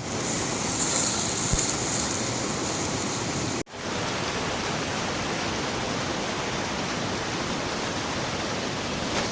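Steady rushing roar of a waterfall, an even wash of falling water. It briefly cuts out once, a little over a third of the way in.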